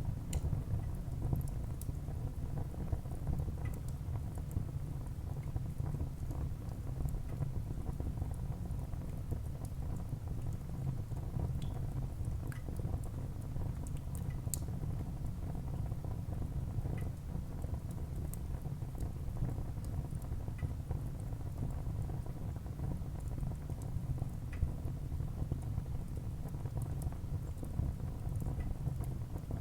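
Wood fire burning in a fireplace: a steady low rumble of the flames with scattered small crackles and pops of the burning wood.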